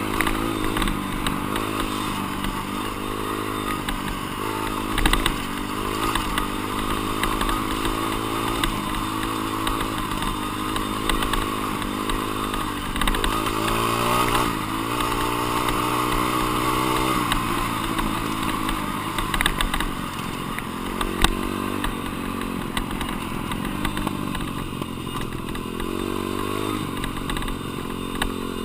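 A dirt bike's single-cylinder engine being ridden hard, revving up and dropping back again and again through the gears, with a few sharp knocks and clatter along the way.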